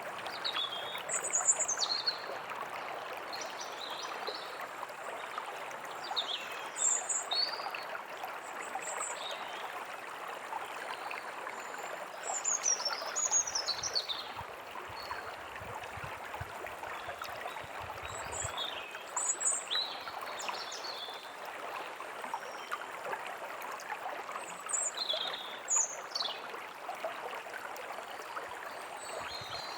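A small forest stream running steadily over stones, with songbirds chirping and trilling in short, scattered calls over it.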